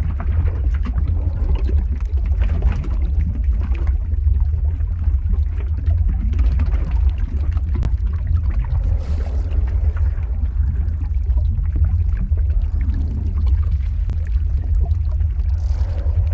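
Lava ambience sound effect: a steady deep rumble with dense small crackles and bubbling over it.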